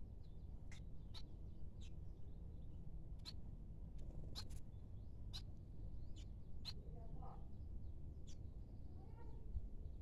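Small aviary birds calling: short sharp high chirps every half second to a second, with a lower run of falling notes about seven seconds in and another near the end, over a steady low rumble.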